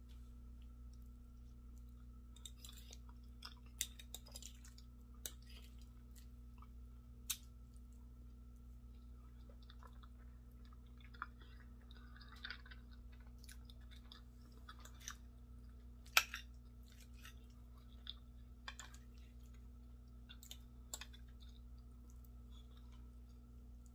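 Close-up chewing and mouth sounds of someone eating soft food (creamy grits, scrambled eggs and sausage), with scattered sharp clicks of a metal fork against a glass bowl, the loudest about two-thirds of the way through. A steady low hum runs underneath.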